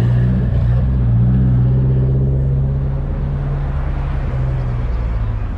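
Car engine running steadily at low revs close by, a deep even drone that eases off near the end.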